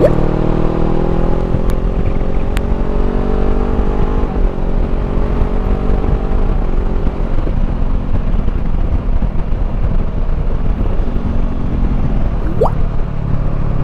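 Honda CBR500R's parallel-twin engine through a Termignoni slip-on exhaust, pulling under way with its pitch climbing, a break about four seconds in as it shifts gear, then a rev rising briefly near the end. A steady rush of wind noise on the microphone runs under it and covers the engine in the middle.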